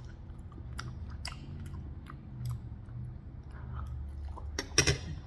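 Close-up chewing of food, wet mouth noises with scattered sharp clicks, and a couple of louder clicks near the end.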